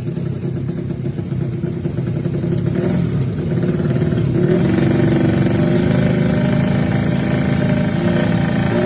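130cc underbone drag-racing motorcycle engine revving, getting louder about three seconds in and holding high revs, with a couple of quick throttle blips near the end.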